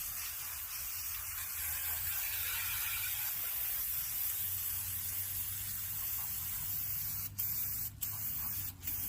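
Spray washing down a dirty chainsaw: a steady hiss, briefly cut off three times near the end as the spray stops and starts.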